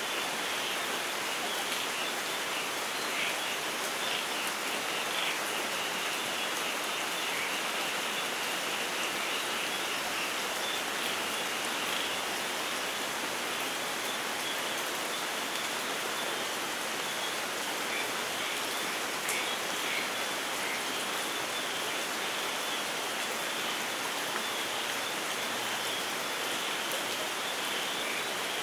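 Steady rainfall in a rainforest, even and unbroken, with a high chirping running over it that is thickest in the first half and again near the end.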